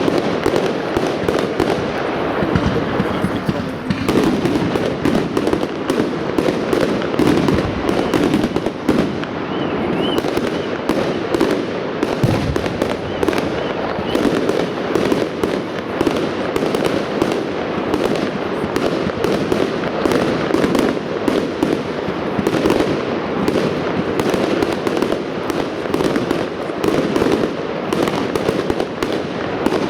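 Fireworks display: aerial shells bursting and crackling in quick succession, many reports a second without a break.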